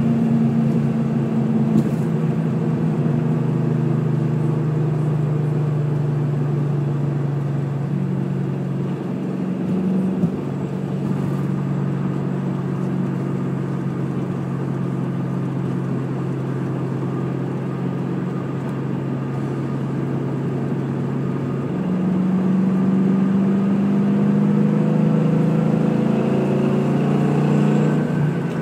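A 2003 Ford Mustang GT's 4.6-litre V8 pulling steadily at a gentle cruise. Its note steps up slightly about ten seconds in, then again a little past twenty seconds, where it gets a bit louder, and its pitch begins to rise near the end.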